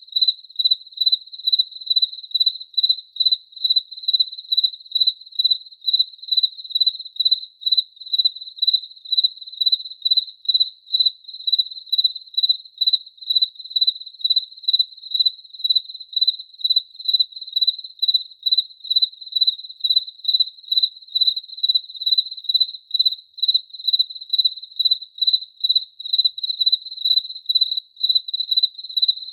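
A cricket chirping in a steady, even rhythm, about two to three high-pitched chirps a second.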